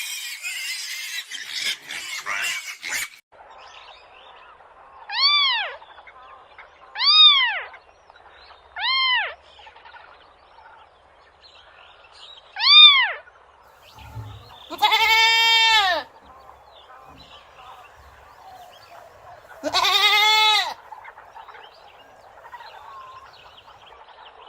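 Bleating livestock: four short calls that rise and fall in pitch, a few seconds apart, then two longer wavering bleats.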